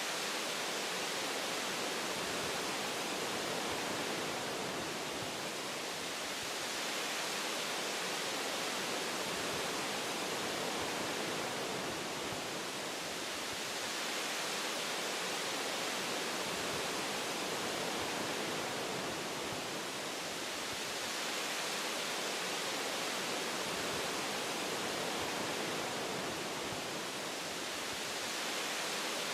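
Wind rushing through forest tree branches, a steady hiss that swells and eases gently every several seconds.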